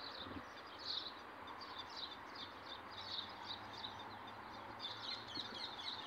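Small birds chirping: many short, high chirps in quick, overlapping runs over a steady faint outdoor hiss.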